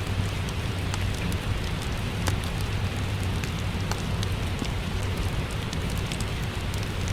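Steady rain with the fine crackle and pops of a wood fire burning in a fireplace, as one even bed of sound with scattered sharp snaps and a low steady rumble underneath.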